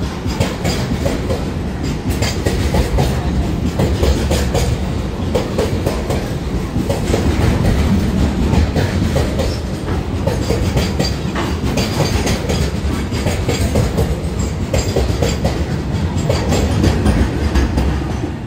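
Container freight train's flat wagons rolling past close by, a heavy continuous rumble with wheels clicking over the rail joints. The sound drops away near the end.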